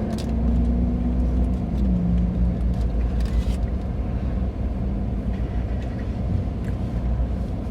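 Motor vehicle engine idling: a steady low rumble with a hum that drops slightly in pitch about two seconds in.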